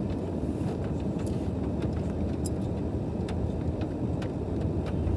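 Steady car running noise heard from inside the cabin, a low rumble of engine and tyres, with scattered light ticks of rain striking the car.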